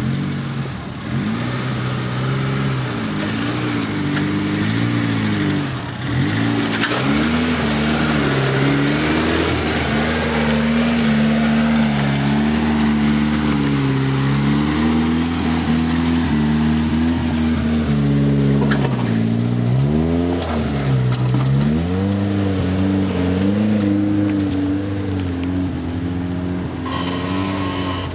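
A Suzuki SJ off-roader's small petrol engine revving up and down under load as it crawls over rocks and through mud, its pitch rising and falling again and again, with two deep dips in revs about two-thirds of the way through.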